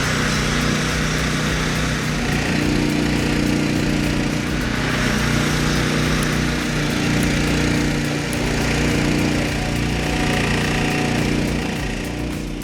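Small gas engine of a mobile log-cutting saw running steadily at an even pitch.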